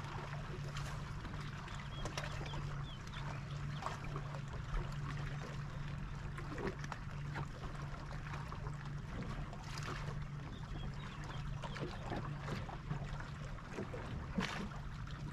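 Water lapping and trickling around a small fishing boat over a steady low motor hum, with a few light knocks.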